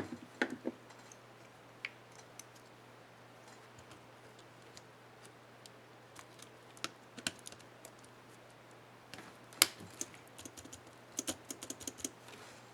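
Sharp plastic clicks from a laptop keyboard as a Shift keycap is worked onto its clips and keys are pressed. The clicks are scattered, with one loud snap about two-thirds of the way through and a quick run of clicks near the end.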